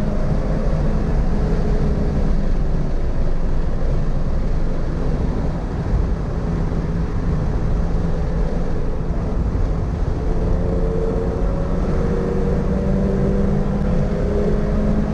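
Toyota GR86's 2.4-litre flat-four engine under way on track. Its pitch falls over the first few seconds as the car slows, then climbs again from about ten seconds in as it accelerates.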